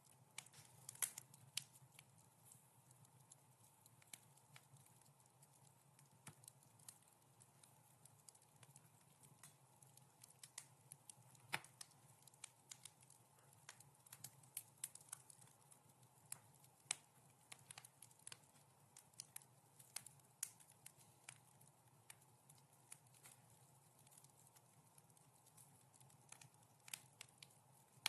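Fireplace fire crackling softly, with irregular sharp pops and snaps scattered through a faint steady low hum.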